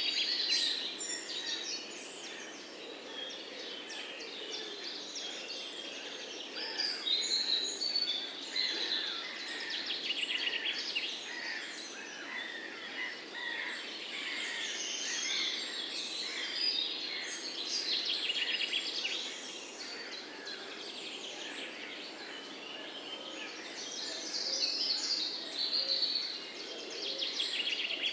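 Several songbirds chirping and singing at once, overlapping trills and short whistled notes, over a steady outdoor background hiss.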